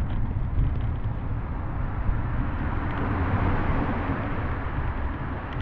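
Wind rumbling on the microphone of a bike-mounted camera while cycling, with steady road and tyre hiss from the wet road that swells in the middle.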